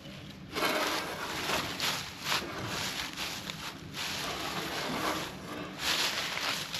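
Footsteps crunching and rustling through dry leaves and ground litter, in irregular bursts.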